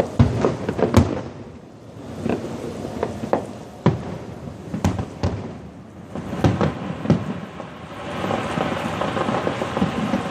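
Aerial fireworks bursting: a run of sharp bangs, then a dense crackling spray from crackle shells setting in near the end alongside more bangs.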